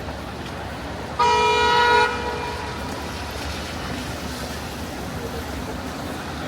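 A vehicle horn honks once, a single steady blast of just under a second, over the steady hum of city street traffic.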